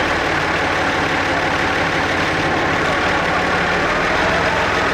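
Eicher tractor's air-cooled diesel engine running steadily at a low, even speed.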